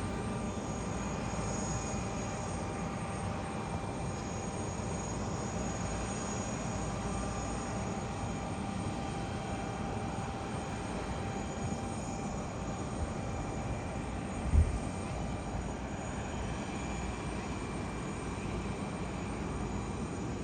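Aircraft engines running steadily at an airport: a continuous rumble with a thin whine over it. About two thirds of the way through there is a single brief low thump.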